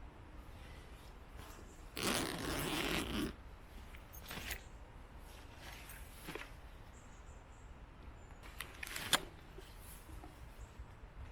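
Handling noises: a rasping, zip-like scrape lasting over a second about two seconds in, then a few faint scuffs and a sharp click near the end.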